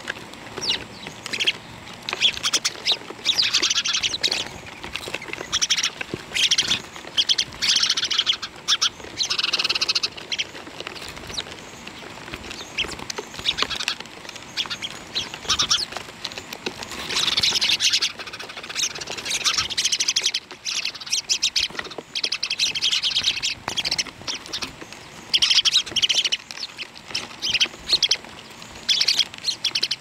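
Many birds chirping, their short high calls overlapping in busy bursts of a second or so with brief gaps between.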